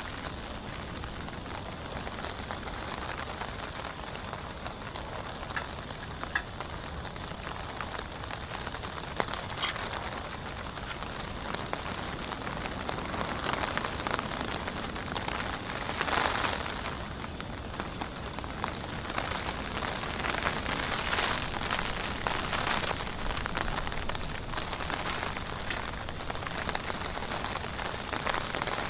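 Heavy rain falling, a steady hiss that swells and eases. A faint high chirp repeats about every second and a half over it.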